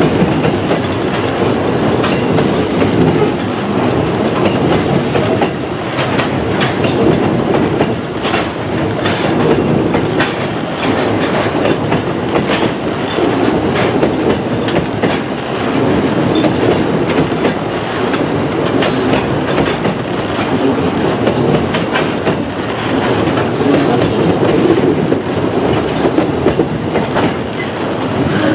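Narrow-gauge coal train hopper wagons rolling steadily across a trestle bridge. The wheels give a continuous rumble with a rapid, irregular clickety-clack over the rail joints.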